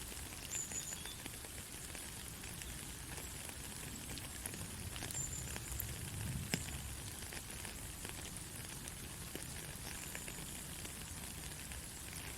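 Steady rain, an even hiss with scattered droplet ticks and one sharper drop hit about halfway through.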